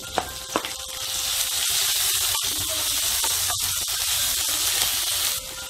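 Crushed shallots sizzling in hot coconut oil in a non-stick pan while a wooden spatula stirs them. A few light clicks come first, then the sizzle swells about a second in and holds steady before dropping away near the end.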